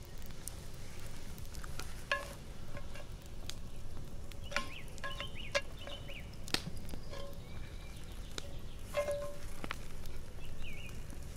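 Wooden spoon knocking against a Petromax cast-iron Dutch oven lid as the lid is worked off. Each knock rings briefly, and the knocks come in a few clusters. Under them run a campfire's scattered crackle and faint bird chirps.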